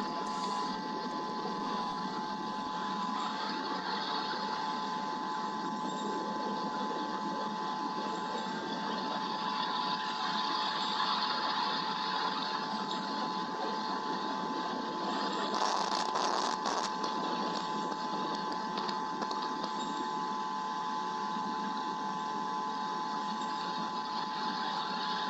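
Steady hiss of rain during a thunderstorm, picked up by a nest-camera microphone, with a steady high electrical whine from the camera running underneath. A louder surge of the hiss comes about two-thirds of the way through and lasts a second or two.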